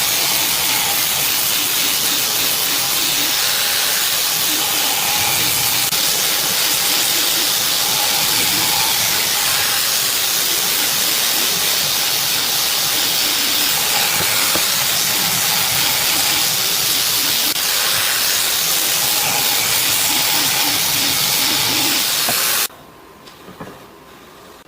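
Loud, steady hissing noise that cuts off suddenly near the end, leaving only a faint outdoor background.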